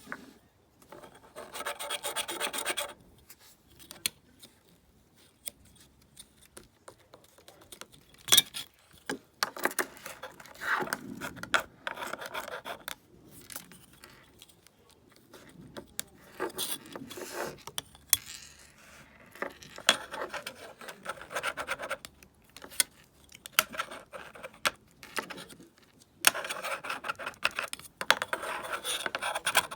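Kinetic sand being worked, giving gritty scraping and rubbing in irregular stretches with quieter pauses between them. Scattered sharp clicks come through, the loudest about eight seconds in, with a long scraping stretch near the end.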